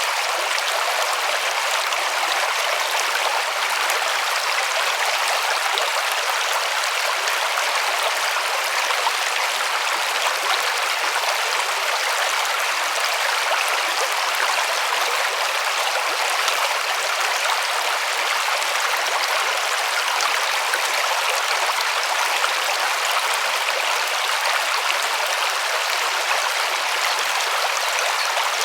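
River water rushing and splashing over stones, a steady, even flow.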